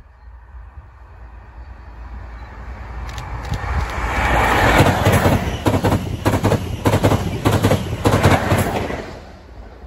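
ScotRail HST (InterCity 125) led by a Class 43 diesel power car passing close by. The engine grows louder as it approaches, then the coaches go by with a quick, regular clicking of wheels over the rail joints, fading just before the end.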